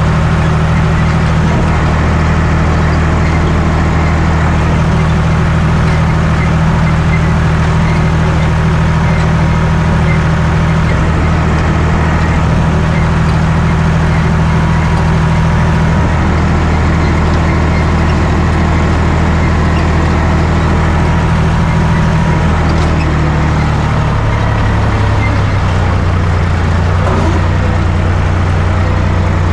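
John Deere 1030 tractor's three-cylinder diesel engine running steadily under load while working a hay tedder; its engine note shifts about three-quarters of the way through.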